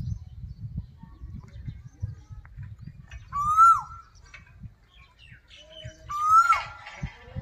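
A bird gives a loud call twice, about three seconds apart, each a short note that rises and then drops sharply. Fainter chirps from other birds come in between, over a low rumble.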